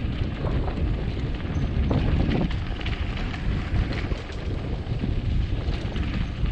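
Wind buffeting the microphone as a mountain bike rolls fast down a rough dirt trail, its tyres and frame rattling with many small knocks and a few rising swells.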